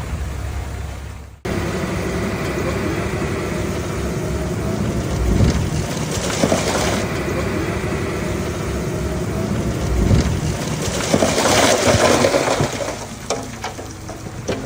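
Komatsu D31P bulldozer's diesel engine running steadily, with two stretches of louder rushing, scraping noise as soil is pushed, about six seconds in and again about eleven seconds in. The sound drops out briefly about a second and a half in.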